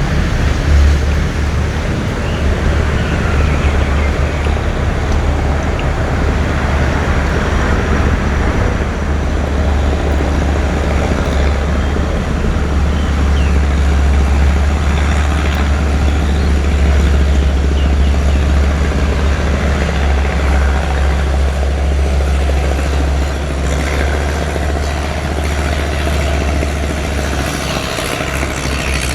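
An engine running steadily: an even low drone under a wash of noise, weakening near the end.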